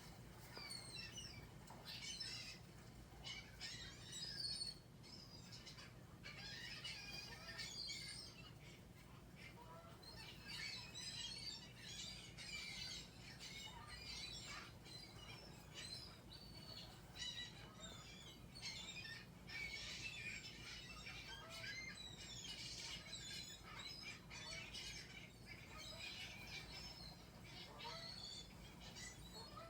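Birds chirping and twittering: many short, high calls overlapping almost without a break, faint.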